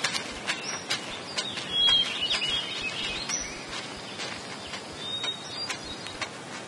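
Birds chirping in short, high whistled notes, with scattered sharp clicks throughout.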